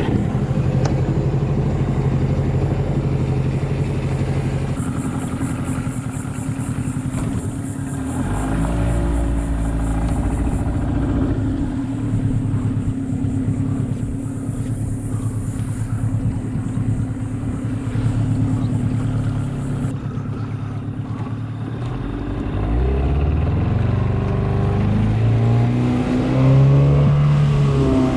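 Mercury 15 hp two-stroke outboard running under way, its note shifting about eight seconds in and climbing over several seconds near the end as the throttle changes.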